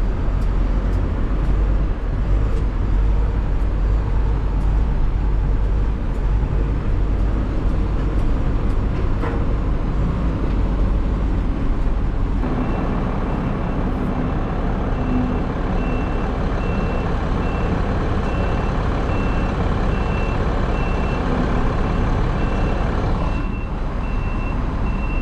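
Heavy vehicle engine running steadily. About halfway through, a reversing alarm starts beeping repeatedly over it.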